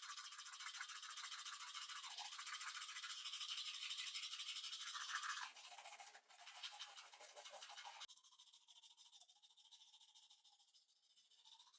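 Faint, high, hissy scrubbing strokes, as of brushing, that die away over the first half and stop about eight seconds in, leaving near silence.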